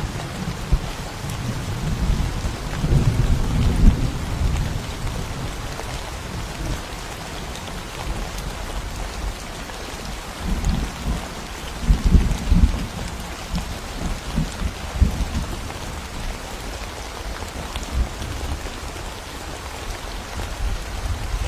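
Steady rain falling, with thunder rumbling low twice: once about two seconds in and again, heavier, around ten to thirteen seconds in.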